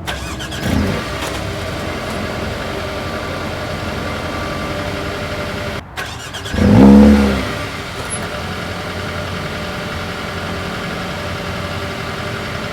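Mercedes-AMG A35's turbocharged 2.0-litre four-cylinder idling steadily. About six and a half seconds in, after a brief break, it gives a loud start-up flare, rising and falling over about a second before settling back to a steady idle.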